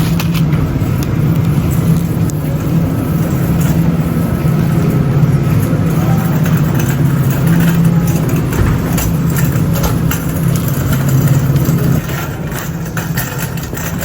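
Steady vehicle running noise: a constant low drone with road-like noise, dropping somewhat in level near the end.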